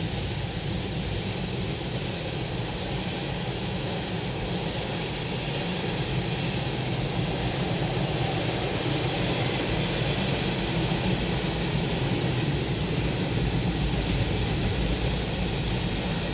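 CN freight train's cars rolling past: a steady rumble of steel wheels on the rails, growing slightly louder about halfway through.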